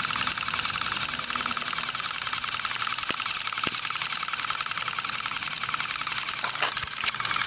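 Small electric motors of battery-powered toy trains whirring steadily as they run along their track, with two faint knocks a little after three seconds in.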